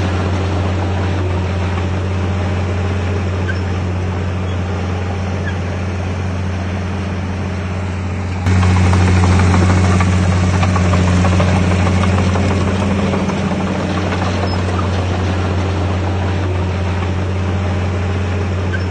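Heavy diesel engine of a bulldozer running steadily with a deep, even hum. About eight seconds in it abruptly gets louder, then eases back over the next few seconds.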